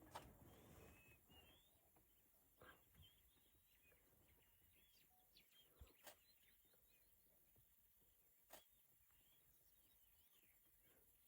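Near silence with faint, scattered bird chirps, and a few sharp clicks.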